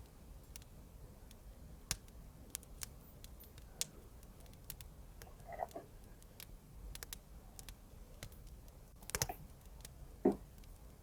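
Faint, scattered small clicks and light taps, with a short cluster of louder knocks about nine seconds in and another knock about a second later.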